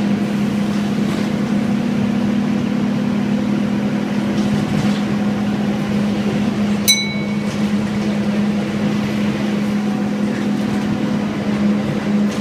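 Scania N230UD bus's five-cylinder diesel running steadily with an even low hum, heard from on board. About seven seconds in comes one short, bright ding.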